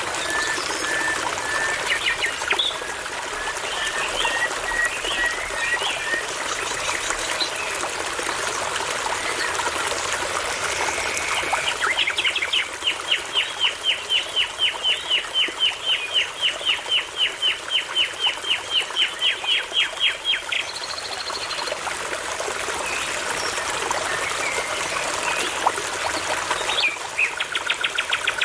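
Songbirds singing over a steadily babbling brook. Early on, a bird repeats a short note at an even pace. In the middle, a bird delivers a long fast series of identical notes, about four a second, for roughly eight seconds. Another brief burst of notes comes near the end.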